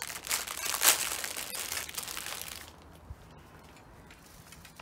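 Plastic bird-food packet crinkling as it is handled and torn open, loudest just under a second in and dying away after about two and a half seconds.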